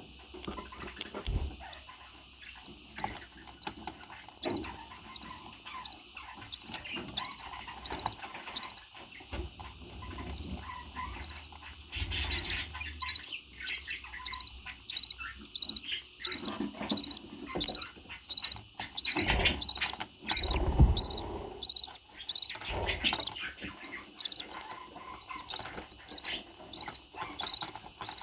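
Small parrots chirping: short high chirps repeating about twice a second, with a few louder rustles and bumps partway through.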